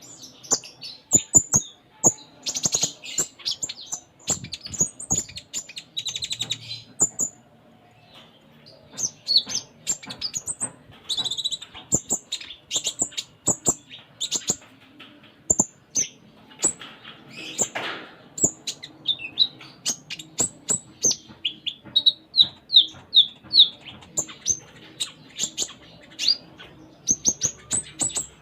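Kolibri ninja (konin) sunbird singing a fast, unbroken stream of short, high chirps and trills, with brief pauses about eight and sixteen seconds in.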